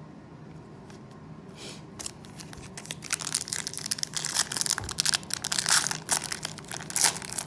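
A trading-card pack wrapper being torn open and crinkled by hand, starting about two seconds in as a dense run of sharp crackles.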